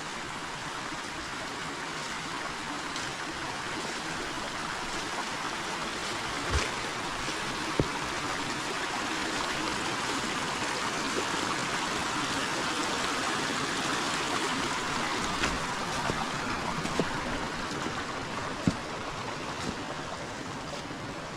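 Forest river flowing steadily with a continuous rushing of water that swells a little in the middle. A few short, sharp clicks stand out above it.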